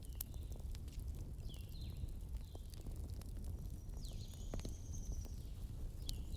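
Fireplace fire crackling, with sharp irregular pops over a low steady rumble. Several short high squeaks, falling in pitch, come through the crackle.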